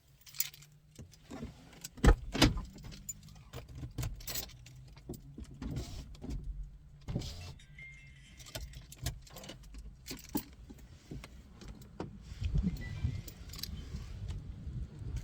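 A car engine idling with a steady low hum, under frequent clicks, knocks and rattles of handling, with two loud thumps about two seconds in.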